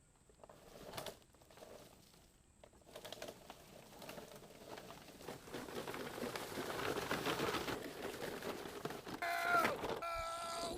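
Toy ride-on Power Wheels jeep rolling, its plastic wheels crunching and crackling over rough ground, growing louder after a near-silent start, with a short yell near the end.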